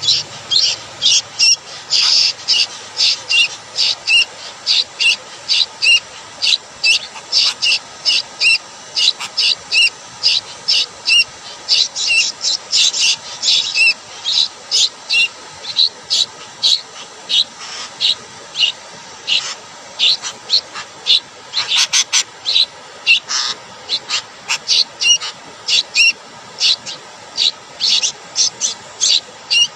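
Bird chirping: short, high-pitched calls repeated quickly and evenly, about two or three a second.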